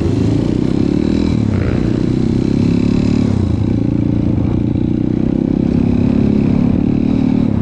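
Off-road trail motorcycle engine running loudly, revving up and down, with the pitch shifting a few times.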